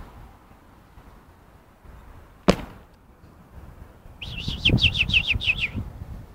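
A small songbird calling a quick run of about nine short, falling chirps near the end. About two and a half seconds in, there is a single sharp click.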